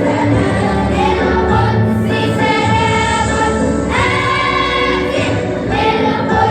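Middle-school choir singing an Arabic nasheed together, holding long notes.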